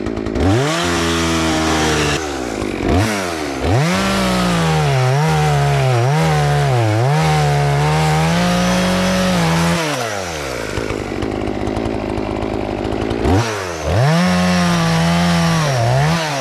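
Chainsaw cutting a fallen tree. It revs up about half a second in and holds at full speed with repeated dips in pitch. It drops back to idle about ten seconds in, then revs up again near the end.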